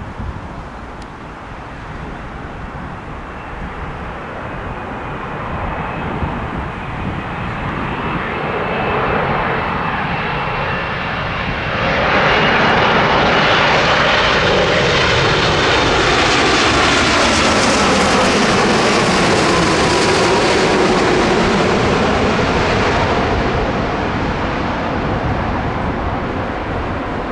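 Airliner passing low overhead: its engine noise builds, rises sharply about halfway through and stays loud for about ten seconds with a whine that falls in pitch, then fades.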